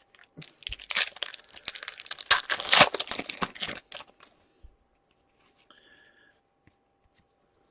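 A foil trading-card pack wrapper being torn open and crinkled, a dense crackling tear lasting about three seconds. A brief faint electronic tone sounds near the end.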